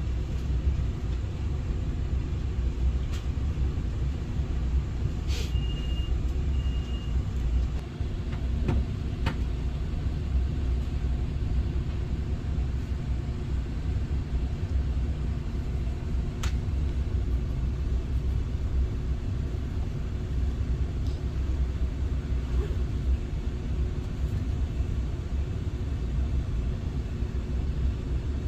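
Steady low rumble inside the passenger cabin of an SRT 120000-series high-speed train, with a few faint clicks and a brief high tone about five seconds in.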